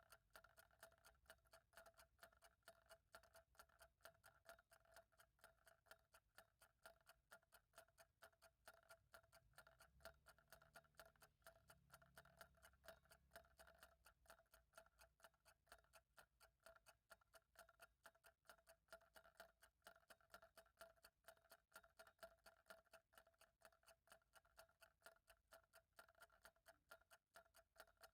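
Faint, steady ticking of a clock, with a faint steady hum underneath.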